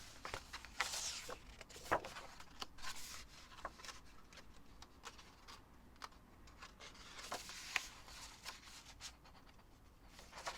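Faint rustling of paper pages being handled and turned, with scattered soft clicks and taps.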